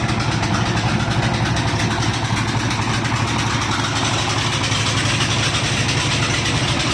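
Small boat engine running steadily at an even speed, a constant low drone with a fast regular pulse.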